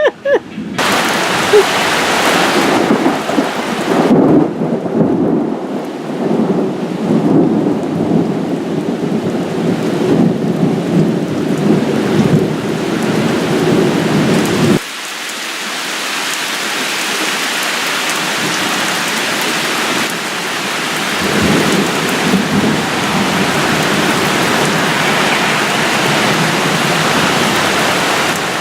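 Heavy rain pouring down in a summer thunderstorm, with thunder rumbling beneath it. The low rumble stops abruptly about fifteen seconds in, leaving the steady hiss of rain, and returns around twenty-one seconds in.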